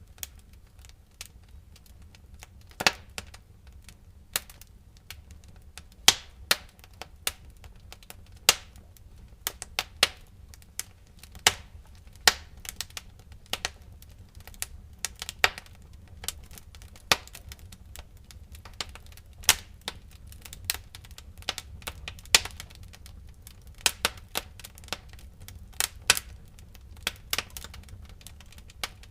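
Wood fire crackling in a fireplace: irregular sharp pops and snaps, some much louder than others, over a low steady rumble.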